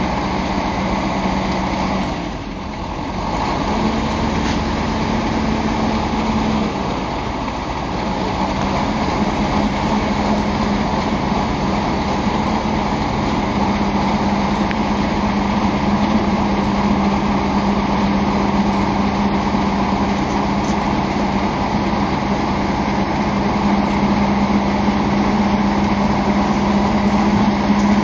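Hooklift truck's diesel engine running steadily. About two seconds in it dips briefly, then runs at a slightly higher pitch for a few seconds before settling back, and its pitch edges up a little in the last few seconds.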